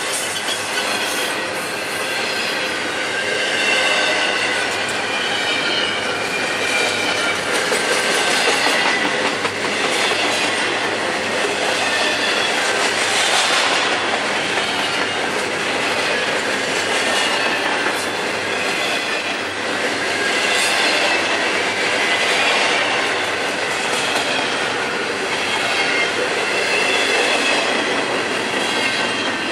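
Double-stack intermodal container train rolling past at close range: the steady rattle and clatter of the loaded well cars and wheels on the rails, with a wavering high-pitched wheel squeal running over it.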